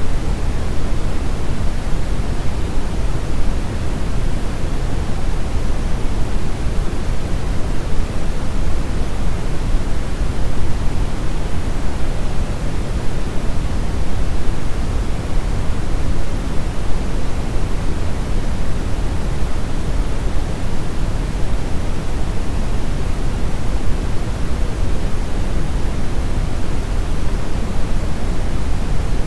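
Steady brown noise: a deep, even hiss heaviest in the bass, unchanging throughout.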